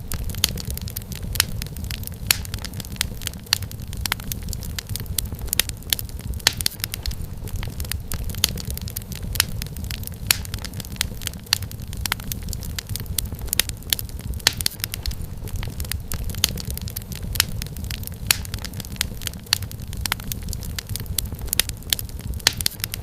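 Wood fire crackling in a fireplace: a steady low rumble of flames with many sharp, irregular pops and snaps of firewood.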